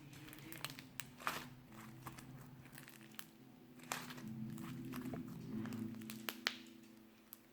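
Slime being squished and worked by hand, giving scattered small crackles and clicks over a steady low background hum.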